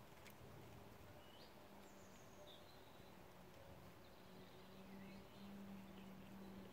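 Near silence outdoors: a few faint, short, high bird chirps at scattered moments over a low, steady hum and light background hiss.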